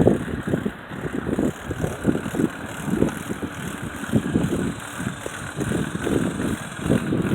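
Wind buffeting the phone's microphone while riding a bicycle: irregular low rumbles that swell and fade every half second or so, over a faint steady hiss of moving air.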